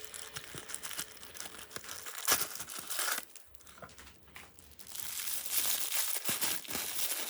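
Plastic packaging crinkling and rustling as a model airplane is unwrapped, with scattered small clicks and a lull in the middle.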